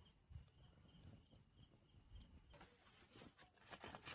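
Faint night chorus of crickets and other insects: a steady high trill with a chirp pulsing about twice a second, and a few soft rustles near the end.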